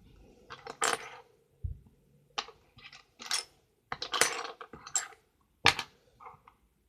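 Light clattering of small hard objects, about eight short rattles and clicks with a dull thump among them.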